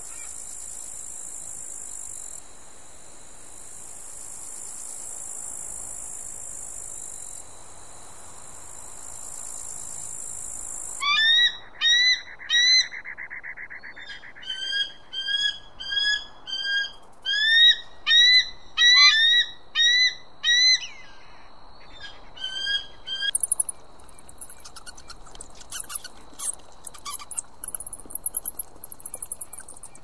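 Madagascar fish eagle calling: loud series of short, sharply rising notes, repeated in quick runs from about a third of the way in. Before the calls there is a steady high hiss, and after them a steady high tone with scattered faint clicks.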